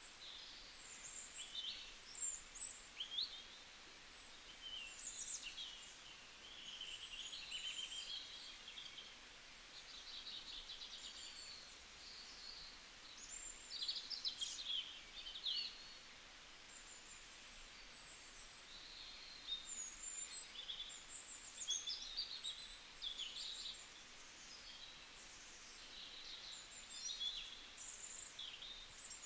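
Several small songbirds chirping and trilling continuously in a dawn-chorus-like mix, short high-pitched calls overlapping one another, over a faint steady background hiss.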